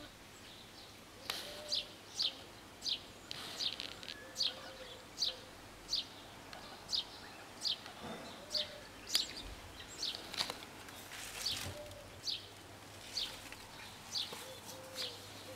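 A bird chirping over and over, short high chirps a little over one a second, with a few soft low coos now and then in the background.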